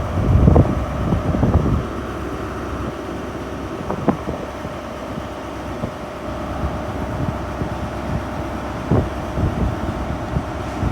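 Class 150 Sprinter diesel multiple unit's underfloor diesel engines running steadily with a low hum as the train departs. Wind buffets the microphone in the first couple of seconds.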